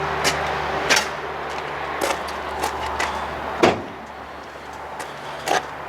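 Metal utility-body compartment doors and latches clicking and knocking as they are handled, over a steady low hum that cuts off with a loud knock about three and a half seconds in.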